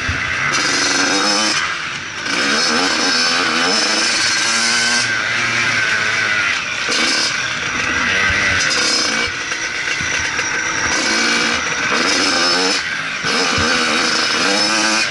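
Motocross bike engine running hard, its pitch rising and falling over and over as the throttle is opened and shut, with a few brief drops in level.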